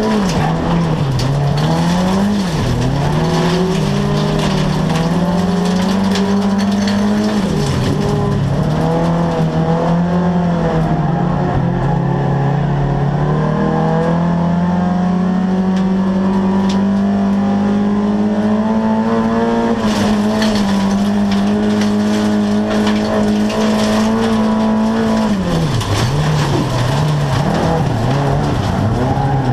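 Saab 99's four-cylinder engine at racing speed, heard from inside the cabin. The revs dip and climb back several times in the first eight seconds, hold steady for about ten seconds in the middle, then drop and rise again near the end.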